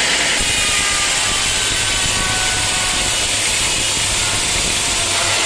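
Sawmill saw cutting through a teak log, a loud steady grinding noise with a low hum from the mill's motor. The sound changes abruptly about half a second in.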